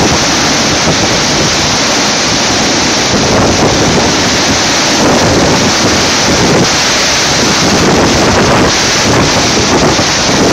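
Typhoon-driven storm surf with strong wind blasting the microphone, a loud steady mass of noise.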